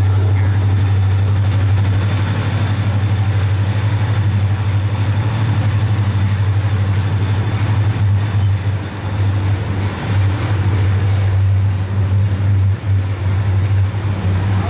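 Passenger train running through a rock tunnel, heard from an open-air vestibule: a loud, steady low rumble of the train and its wheels on the rails, closed in by the tunnel walls.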